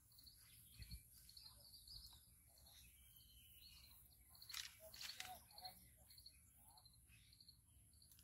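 Faint outdoor ambience: small birds chirping repeatedly, with a couple of soft clicks about halfway through.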